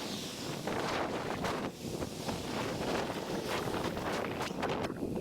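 Wind buffeting the microphone of a moving bicycle, a steady rushing noise with uneven gusty swells.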